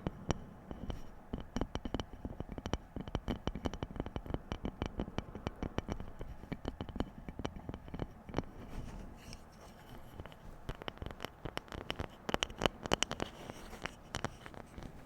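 Rapid random tapping for ASMR, fingers or nails striking objects in quick, irregular strings of taps, thinning briefly past the middle and growing loudest near the end.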